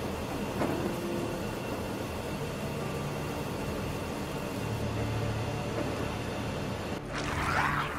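Airliner jet engines in flight, a steady rushing rumble, with low held tones underneath that shift a few times. About seven seconds in, a wavering, higher-pitched sound cuts in suddenly and grows louder.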